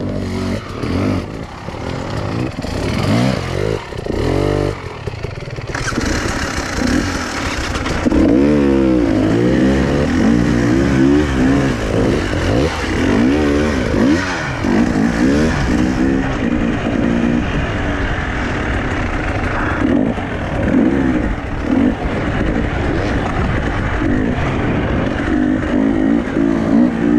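Enduro motorcycle engine heard on board, revving up and down again and again as it rides over rough off-road ground. The engine is choppier over the first few seconds, then runs on harder and louder from about six seconds in.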